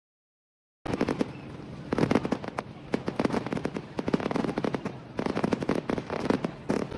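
Fireworks display: after about a second of silence, a dense, rapid run of crackling pops and sharper bangs starts, swelling in clusters.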